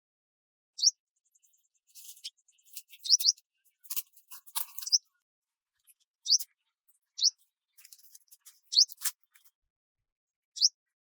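A bird repeating a short rising chirp every second or two, with spells of faint crackling and crunching clicks between the chirps.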